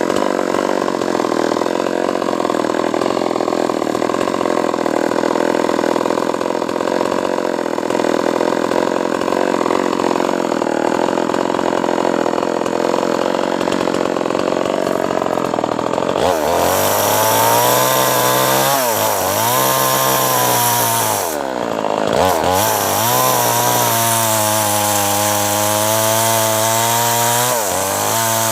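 Two-stroke chainsaw running hard while cutting acacia wood. About halfway through its engine note changes, then sags and recovers several times as the chain bites into the wood.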